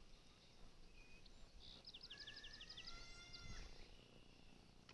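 A songbird singing faintly, one phrase in the middle: a fast run of about eight quick repeated notes, then a short held trill, over a quiet outdoor hush.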